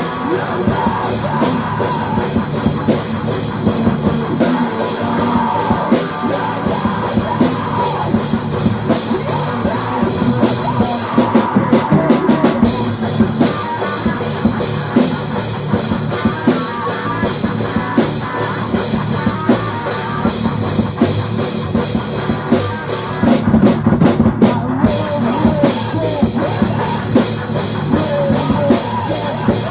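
Rock music with a loud drum kit driving it. The high end cuts out briefly twice, once near the middle and once about four-fifths of the way in.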